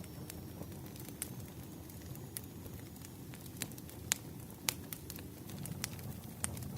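Wood fire crackling: irregular sharp pops and snaps over a low steady rumble, the loudest pops about four and four and a half seconds in.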